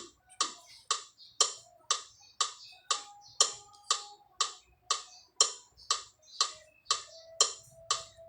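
Metronome ticking steadily at about two clicks a second.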